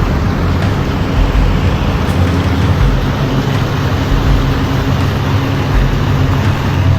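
Jet ski engine running steadily at speed, mixed with rushing wind and water noise.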